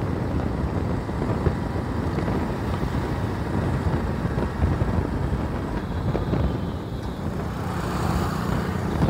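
Honda commuter motorcycle's single-cylinder engine running steadily while ridden at cruising speed, with road and wind noise, from the rider's seat. A mechanic has warned that this engine is close to seizing. Another vehicle comes up alongside near the end.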